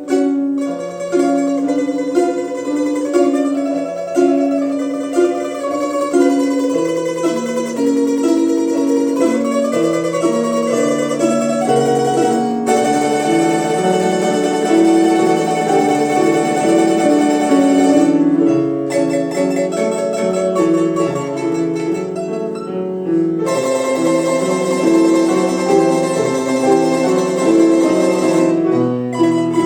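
A quartet of domras playing an instrumental piece: plucked-string melody over lower moving accompaniment lines.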